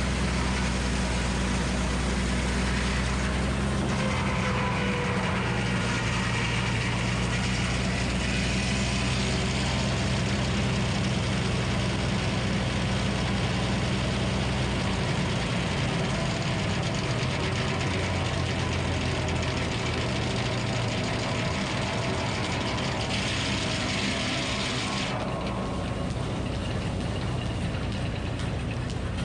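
Minneapolis Moline HEB 605 cubic inch engine powering the sawmill runs steadily. Its note shifts about four seconds in, and a higher hiss over it drops away near the end.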